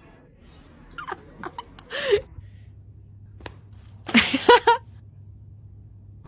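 A few short, sharp vocal sounds: a group of brief ones a second or two in, then a louder cluster of three or four a little after four seconds in.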